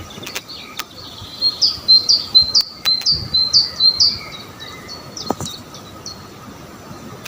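A songbird singing a run of repeated high chirping notes, about three a second, that fade out a few seconds in.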